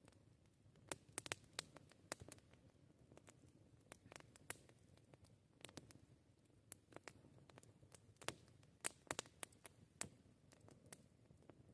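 Wood campfire crackling: faint, irregular sharp pops and snaps, some coming in quick clusters, over a low soft hiss.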